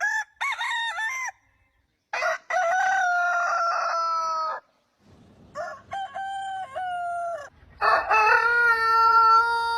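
Roosters crowing: four separate crows with short silent gaps between them, a short one first, then two longer drawn-out ones, and a fourth, lower and louder, that starts near the end and carries on.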